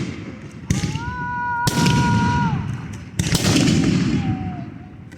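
Fireworks going off: three loud bangs, each followed by a long rolling rumble that dies away. A steady whistle sounds for more than a second between the first two bangs.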